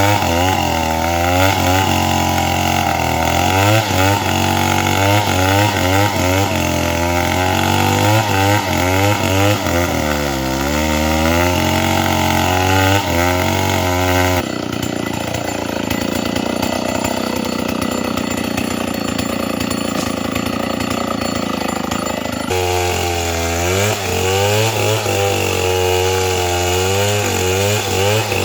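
Chainsaw engine running loud and cutting timber, its pitch rising and falling repeatedly as the chain bites and frees. About halfway through, the sound changes abruptly to a steadier, lower drone for several seconds, then the wavering chainsaw sound returns.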